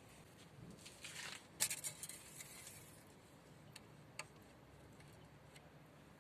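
Small handling noises: a short rustle about a second in, then one sharp click followed by a few lighter clicks and taps.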